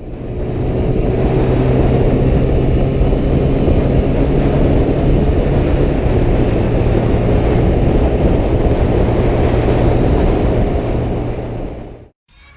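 Vehicle engine running steadily at a constant speed: a low hum under loud rushing noise. It fades in at the start and cuts off abruptly shortly before the end.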